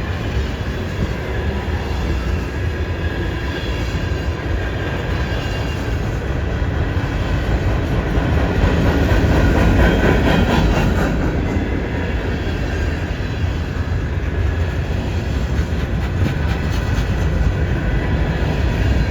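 Freight train cars rolling past on a curve: a steady rumble of steel wheels on rail, with a faint steady high squeal from the wheels. It grows louder about halfway through.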